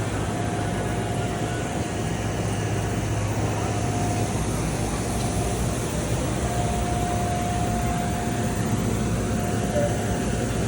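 Sunthinks SU805 single-pass UV printer running while it prints: a steady machine hum and fan noise, with a thin whine that comes and goes.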